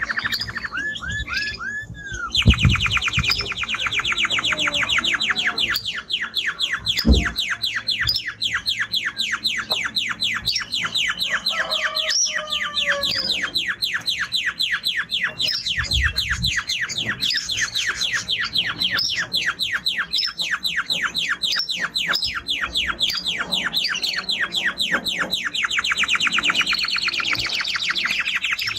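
Male canary singing a continuous song of long, rapid trills of repeated high notes that shift in pitch from phrase to phrase. A few brief low thumps sound under the song.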